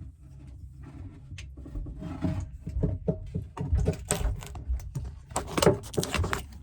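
Irregular knocks, clicks and clatter of hands-on work in a cramped compartment, sparse at first and coming thick and fast from about two seconds in, over a low rumble.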